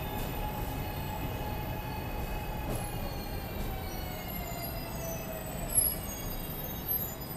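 SEPTA Market-Frankford Line elevated train at the platform: a steady rumble with a whine that slowly falls in pitch, a few short high squeals, and one sharp knock just before six seconds in.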